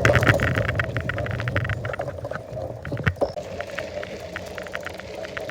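Ride noise of a bike: a dense patter of small rattling clicks over a low rumble, loudest in the first second and easing off, with a single sharp knock about three seconds in.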